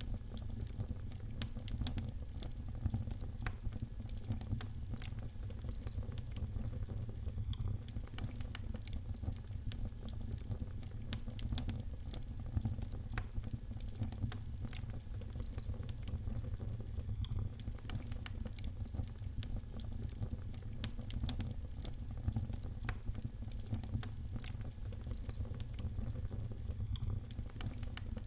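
Fireplace fire crackling: many small, irregular snaps and pops over a steady low rumble.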